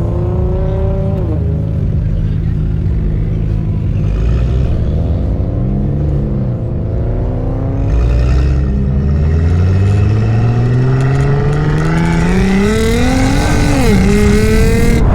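A car engine accelerating through the gears: its pitch climbs, drops briefly at an upshift about a second in, then climbs for several seconds and dips at another shift near the end, over a steady low drone.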